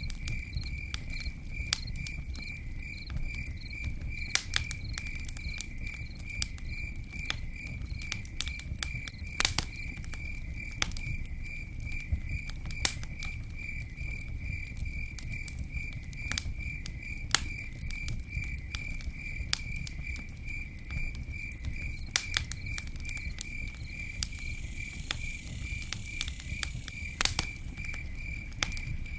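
Campfire burning with a low rush, irregular crackles and sharp pops, a few of them louder. A cricket chirps in a steady, even, high-pitched pulse behind it.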